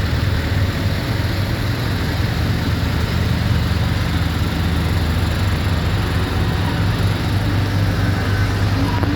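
Tractor engines running steadily, a continuous low drone.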